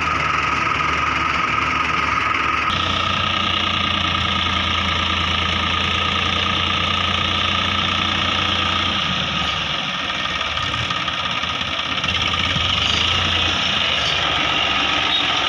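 Diesel tractor engine running steadily. Its tone changes abruptly about three seconds in and dips briefly around ten seconds.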